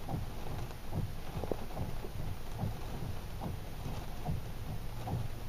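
Windstorm: a steady low wind rumble with an irregular patter of drops tapping.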